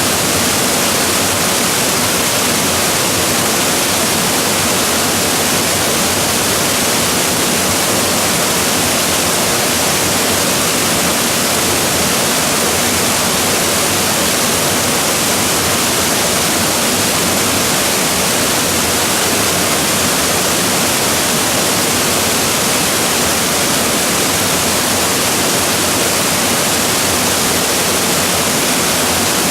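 Waterfall crashing steadily: a loud, even rush of falling water that does not change.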